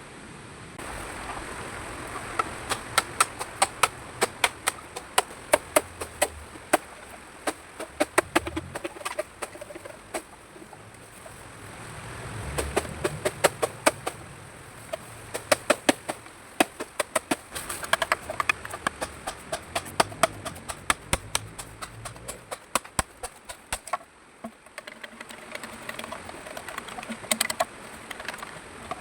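Runs of sharp clicks and snaps, about two to four a second and denser in places, with short pauses between runs.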